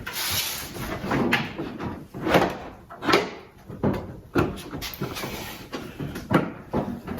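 Plastic front bumper cover of a 2014 Ford Mustang being forced into place by hand: a series of knocks, clunks and scrapes as it is pushed and shifted against the body.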